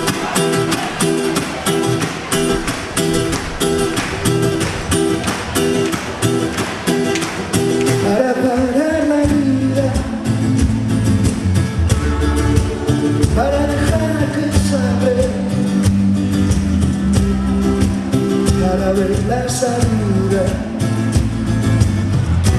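Band playing a song's instrumental introduction. A quick rhythmic pattern of guitar and percussion strokes is joined about eight seconds in by deeper notes and a gliding melody line.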